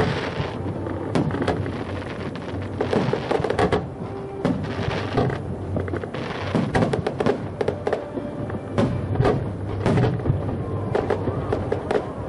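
Aerial fireworks shells bursting one after another, a dense run of booms and bangs, with music playing alongside.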